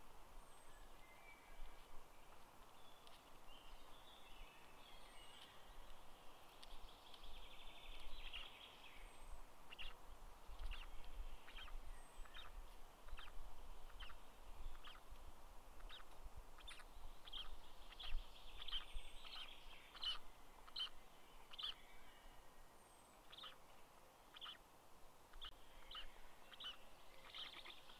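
Faint birdsong: short high chirps that come more often, about once or twice a second, from partway through, over a soft background hiss.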